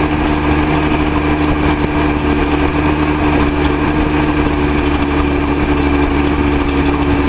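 Nissan L28 straight-six engine of a Datsun 280Z idling steadily, its misfire much improved by a replacement fuel injector.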